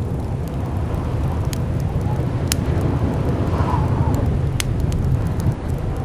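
Blizzard wind blowing hard with a steady deep rumble and a wavering, howling whistle that swells about three and a half seconds in. Scattered sharp clicks and crackles sound over it.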